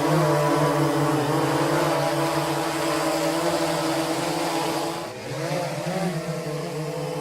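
Parrot Airborne Night mini drone's electric motors and propellers buzzing in flight. The pitch wavers as the motors speed up and slow, with a brief dip about five seconds in.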